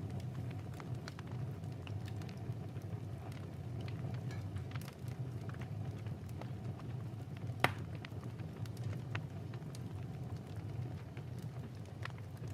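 Crackling fireplace: scattered small pops over a steady low rumble, with one sharper pop about two-thirds of the way in.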